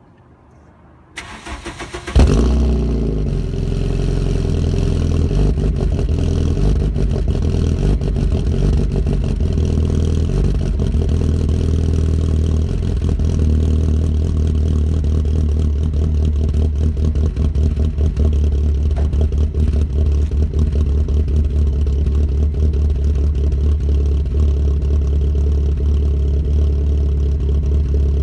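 Cold start of a 1991 Volkswagen Jetta MK2's swapped 2.0-litre ABA four-cylinder engine with an upgraded cam and full Magnaflow exhaust. The starter cranks for about a second, the engine catches about two seconds in with a brief flare, then settles into a steady idle with a deep exhaust rumble.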